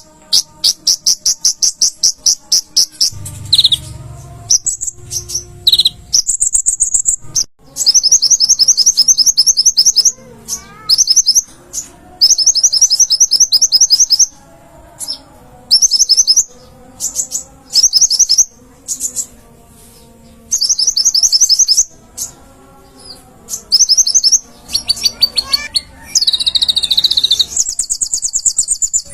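Olive-backed sunbird (kolibri ninja) singing: fast, high trills in bursts of a second or two, repeated with short gaps, with a few short whistled notes mixed in.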